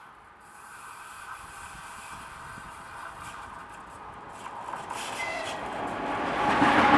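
ChS4T electric locomotive hauling a passenger train as it approaches, its rail and wheel noise growing steadily louder toward the end, with a brief thin whine about five seconds in.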